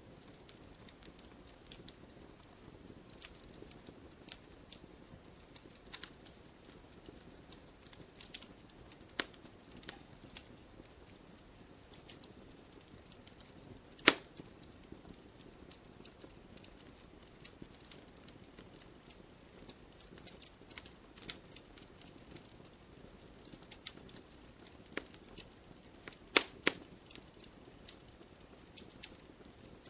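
Wood campfire crackling: irregular sharp pops and snaps over a low steady hiss, with one loud pop about halfway through and a quick run of pops near the end.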